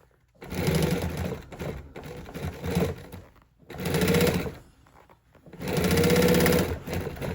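Sewing machine stitching in three runs: a long run, a short one, then another about two seconds long, with brief pauses between them.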